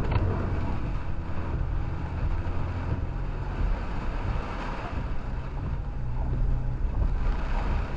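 Pickup truck driving, heard from inside the cab: a steady low engine rumble under road and tyre noise.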